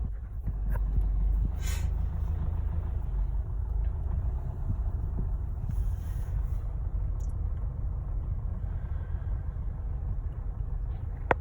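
Garbage truck's engine running with a steady low rumble, with short hisses of air from its air brakes about two seconds in and again around six seconds. A sharp click comes near the end.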